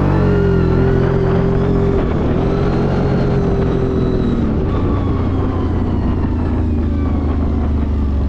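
ATV engine running under load on a climb: the pitch rises just before, holds steady, then eases off and drops about four and a half seconds in.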